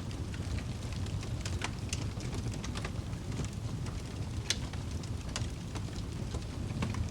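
Wood fire burning in a fireplace: a steady low rumble of the flames with scattered crackles and small pops, the sharpest about four and a half seconds in.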